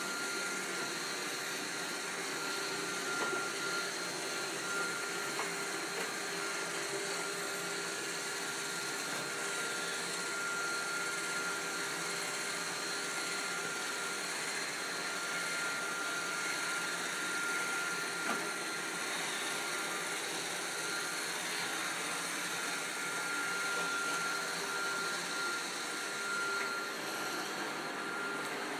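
iRobot Roomba 532 robot vacuum running: a steady whirr from its vacuum motor and brushes with a thin high whine, and a couple of light knocks.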